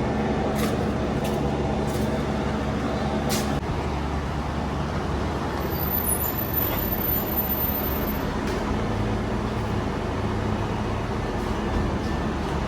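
A car engine idling steadily, with a few faint clicks.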